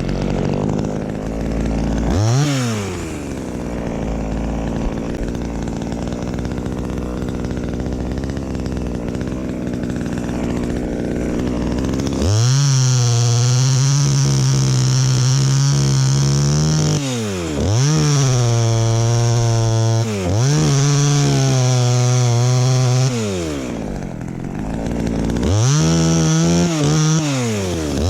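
Two-stroke chainsaw running, steady at lower revs for the first dozen seconds, then opened up to full throttle in several long runs of a few seconds each, the revs dropping briefly between runs.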